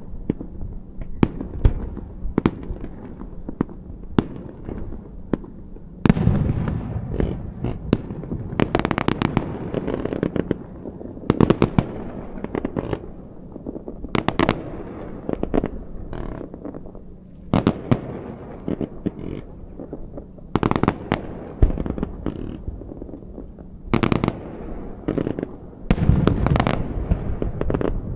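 Aerial fireworks bursting: an irregular run of sharp bangs, with dense clusters of rapid crackling bangs every few seconds.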